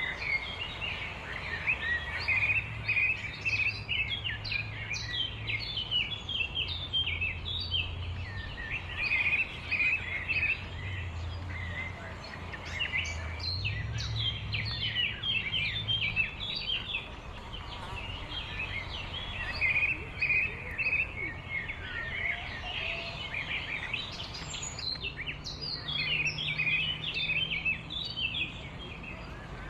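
Many small birds chirping and twittering continuously in a dense chorus, with a low rumble underneath.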